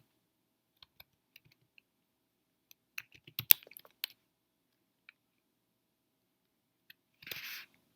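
Computer keyboard keystrokes and mouse clicks, sparse at first with a quick cluster of clicks about three to four seconds in, then a short rush of noise near the end.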